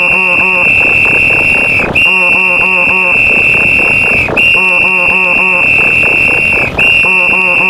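Referee whistle sound effect blowing long, steady, high blasts of about two seconds each, one after another. At the start of each blast a rapid pulsing sound runs under it, layered with other sound effects.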